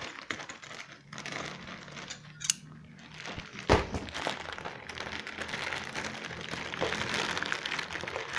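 Plastic packing bags crinkling and rustling as a hand rummages through the accessories inside a TV carton, thickening over the second half, with two short knocks in the first half.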